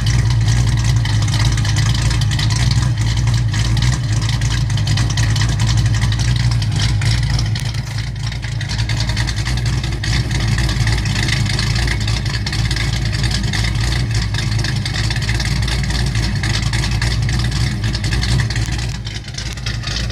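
Exhaust of a 1989 Ford Mustang LX with a mild cam, running through Spintech mufflers, the engine idling steadily with a deep, even note.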